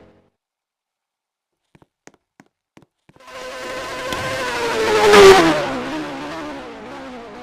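A car driving past at speed: after about three seconds of near silence with a few faint clicks, its engine comes in, grows louder to a peak a little past five seconds in, and then drops in pitch and fades as it goes by.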